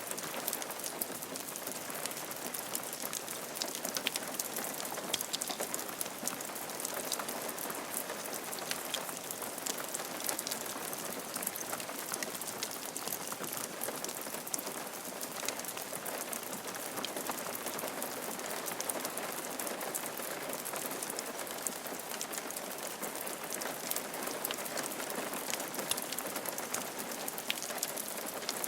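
Steady rain falling on a roof, a continuous hiss full of fine drop ticks.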